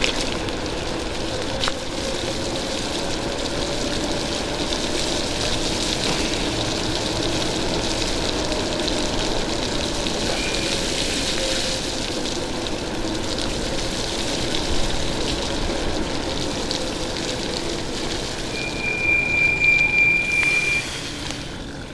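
Steady rush of heavy rain and wet road spray while riding an e-bike, with a low whine that drifts slightly in pitch. Near the end a high, steady squeal sounds for about two seconds.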